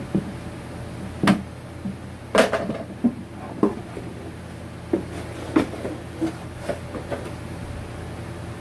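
A series of irregular knocks and clatters of hard objects being handled and set down, about ten in the first seven seconds, the loudest about two and a half seconds in, over a steady low hum.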